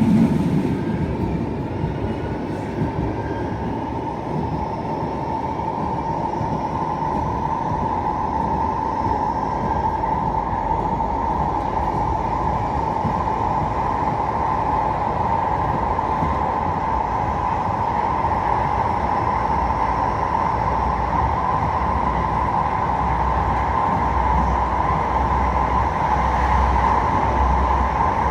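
Metrolink tram running on its tracks, heard on board: a steady whine from its electric drive, rising slightly in pitch over the first several seconds as it gathers speed and then holding, over a constant low rumble of wheels on rail.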